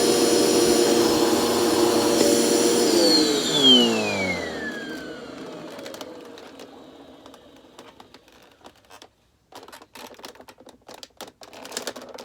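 Dirt Devil Express Vac handheld vacuum running with a steady whine, switched off about three seconds in, its motor pitch falling as it spins down over the next few seconds. Then scattered clicks and knocks as the plastic vacuum is handled.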